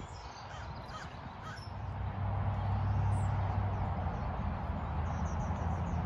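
Birds chirping in short high calls, with a quick run of repeated chirps near the end. Under them is a steady low rumble that grows louder about two seconds in.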